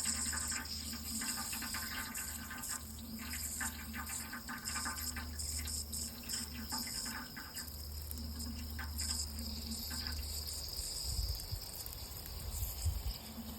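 Water running steadily, with an uneven splashing texture and a low hum underneath.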